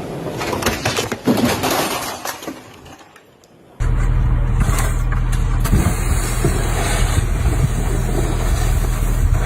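Several sharp knocks and clatter over noise, fading away, then an abrupt change about four seconds in to a loud, steady low rumble of a vehicle engine running.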